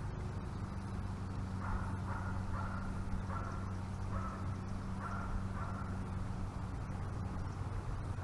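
Crows cawing, a run of about six or seven short caws over a few seconds, over a steady low hum.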